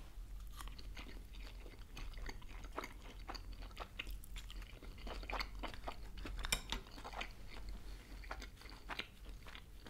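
A person biting into and chewing a dumpling close to the microphone: a steady run of small, faint mouth clicks.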